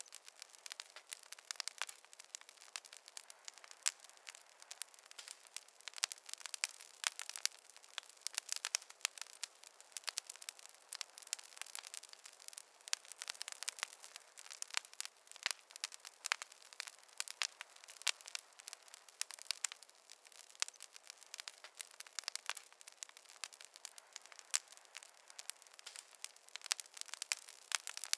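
Wood fire crackling: a dense, irregular run of sharp pops and snaps from burning logs over a faint hiss.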